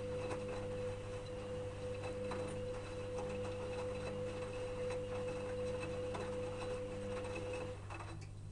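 Electrolux EWS 1045 washing machine running, a steady whining tone over a low hum with faint clicks and rustles. The whine cuts off near the end, leaving the low hum.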